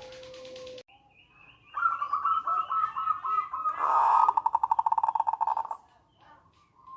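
Zebra dove (perkutut) singing: a run of short cooing notes starts about two seconds in and quickens into a fast rattling trill, stopping about six seconds in. A faint steady tone cuts off abruptly in the first second.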